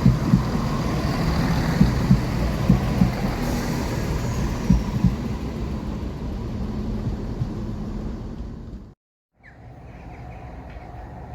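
Train passing close by, its rumble broken by irregular heavy thumps of wheels over rail joints and fading as it goes. About nine seconds in the sound cuts off abruptly, and a quieter steady background follows.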